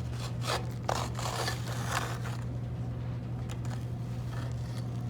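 Hand scraper scraping packed old grass and dirt off the metal underside of a hay baler. Several rough strokes come in the first two seconds or so, then lighter scratches and clicks.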